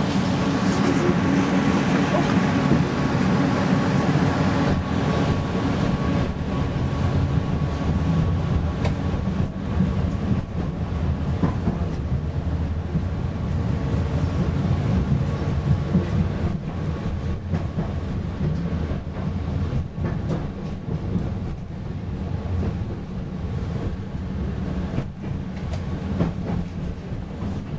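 Inside a PESA Fokstrot low-floor tram running along the track: a steady rumble of the wheels on the rails. In the first half a faint steady whine from the drive sits over it, and later there are scattered clicks over rail joints.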